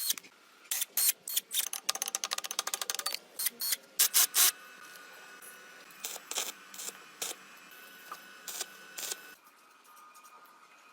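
A run of sharp clicks and knocks, including a fast rattle of clicks about two to three seconds in. After that comes a faint steady tone with scattered clicks, which drops away near the end.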